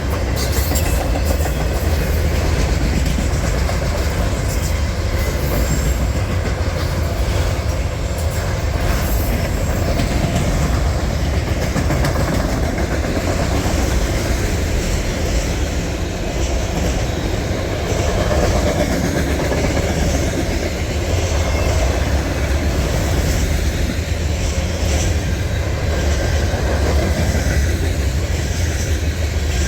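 Norfolk Southern freight train's cars rolling past at steady speed: a continuous rumble with the wheels clattering over the rails.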